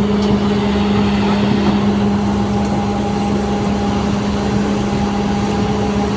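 Heavy truck driving, its engine giving a steady droning hum over constant road and wind noise.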